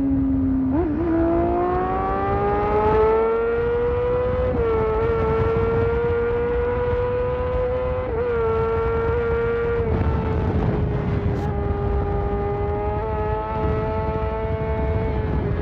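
Sport motorcycle engine accelerating, its pitch rising steadily for about four seconds, then cruising at steady revs and easing back a little about ten seconds in, with wind and road rumble underneath.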